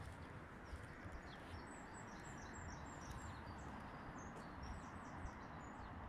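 Small birds chirping, many short high calls in quick succession, over a steady low outdoor background noise.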